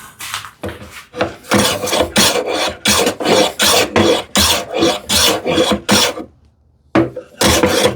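Hand plane taking quick, short shavings off the edge of a wooden drawer front, about three strokes a second, with a brief pause near the end before a few more strokes.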